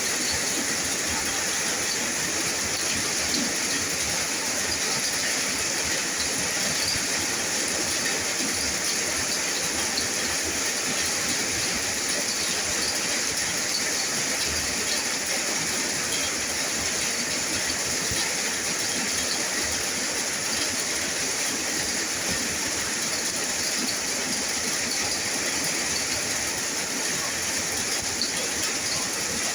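Steady rain falling, a continuous even hiss of water.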